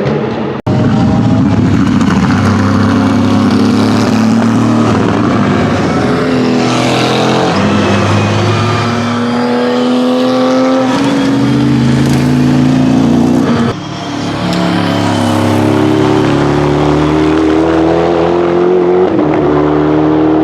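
Several GT race car engines running hard at full throttle, their pitch climbing and dropping back again and again as they shift up through the gears, several cars overlapping. The sound cuts sharply less than a second in and again about two-thirds of the way through.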